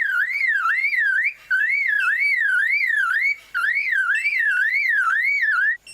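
Superb lyrebird mimicking a car alarm: a whistled tone sweeping up and down about three times a second, in three runs with short breaks between them.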